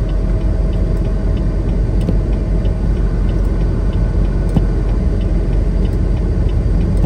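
Steady low rumble of a semi truck driving on a snowy highway, engine and road noise heard from inside the cab, with a faint regular ticking over it.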